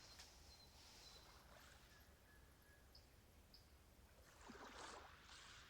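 Near silence: faint outdoor ambience with a few brief, faint high chirps, and a short noisy swish near the end.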